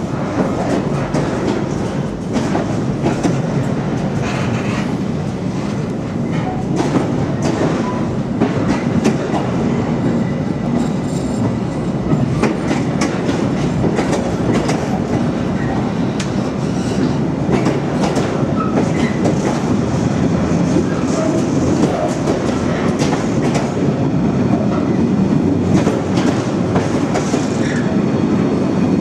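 Container freight train wagons rolling past at close range: a steady, loud rumble with a rapid run of clacks as the wheels cross rail joints.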